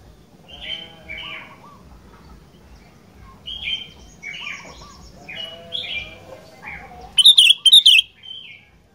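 Sooty-headed bulbul singing short bursts of quick, bubbling whistled notes. The loudest, harshest burst of notes comes about seven seconds in.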